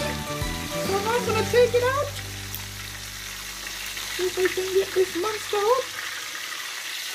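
Chicken searing in a pan of hot butter and fat: a steady sizzle throughout. A wavering melodic tune rises over it during the first two seconds and again from about four to six seconds in.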